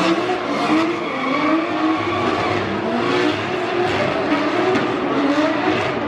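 Drift cars battling on track: engines revving hard, rising and falling in pitch, over continuous tyre screech.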